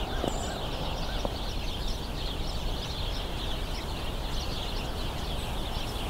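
A large flock of house sparrows chattering and squabbling, many overlapping chirps running on without a break.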